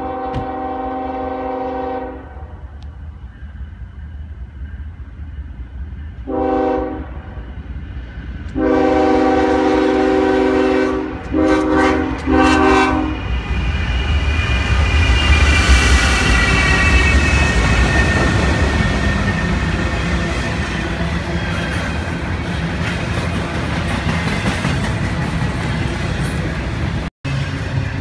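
Norfolk Southern diesel locomotive's multi-chime air horn sounding for a grade crossing: a long blast, a short one, then a longer blast that breaks into short toots. Then the locomotives and a double-stack container train rumble past, with wheel clatter and a high wheel squeal.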